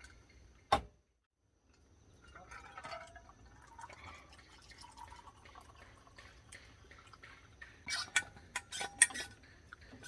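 Water dripping and trickling, with scattered small clicks and a cluster of louder sharp clinks about eight to nine seconds in.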